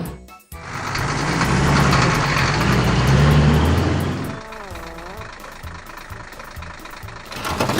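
Cartoon school bus engine sound effect, running and rising in pitch for about four seconds, then a short warbling tone and a quieter steady beat.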